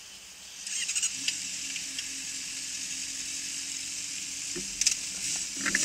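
Motorcycle engine idling: a low steady hum under a steady hiss, starting about a second in, with a few sharp clicks and knocks near the end.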